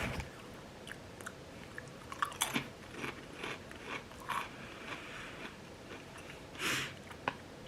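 A person chewing a mouthful of potato crisps, with irregular small crunches. A brief louder noise comes about two-thirds of the way through.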